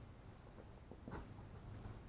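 Near silence: a faint low hum with one small click about a second in.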